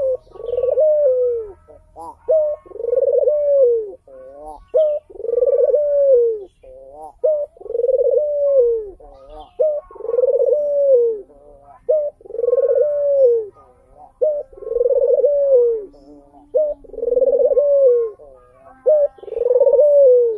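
Ringneck dove cooing over and over: a short clipped note followed by a long rolling coo that rises and falls, repeated about nine times at an even pace.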